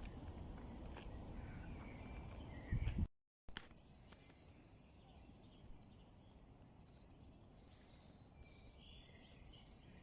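Outdoor ambience of insects chirping in short pulsed bursts, with a few bird chirps. A low rumble fills the first three seconds and ends in a thump and a brief dropout.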